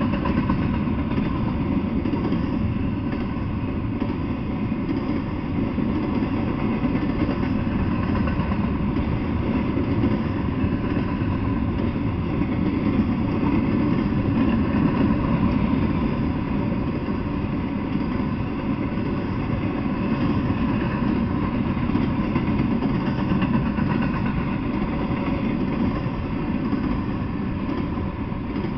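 Double-stack intermodal freight train rolling slowly past: a steady, unbroken rumble of steel wheels on the rails, with a few faint steady tones above it.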